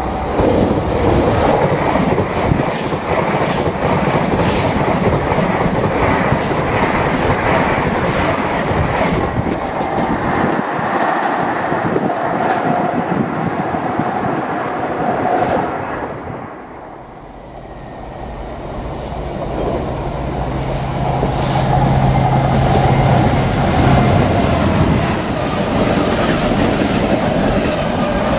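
A passenger train passes at speed with loud rushing wheel and rail noise. About two-thirds of the way in, after a brief drop, a Freightliner Class 66 diesel locomotive approaches with a steady engine hum that grows loud as it draws level.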